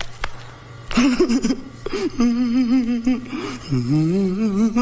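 A person's voice making a wordless, wavering whimper-like hum: a held pitch that wobbles evenly, then slides upward near the end.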